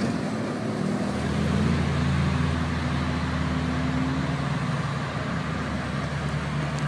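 Nissan GT-R's engine held at high, fairly steady revs while the car slides through snow, its note rising a little and then easing off after about four and a half seconds, over a steady hiss of road and wind noise.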